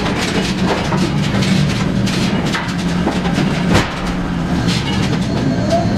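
Heavy engine running steadily under a dense clatter of clanks and rattles, with one sharper knock about two-thirds of the way through.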